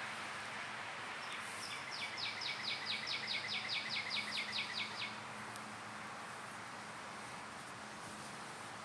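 A songbird singing a run of about fourteen quick down-slurred notes, about four a second, lasting some three seconds, over steady background noise.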